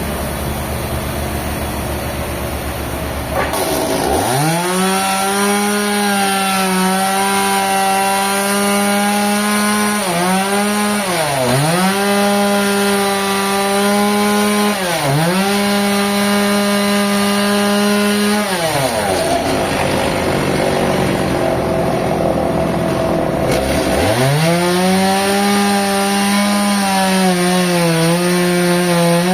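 An engine-driven saw cutting a trembesi log. It revs up from idle about three and a half seconds in and runs at a high, steady pitch, which dips twice as the saw bogs down in the hard wood. It drops back toward idle, then revs up again to cut near the end.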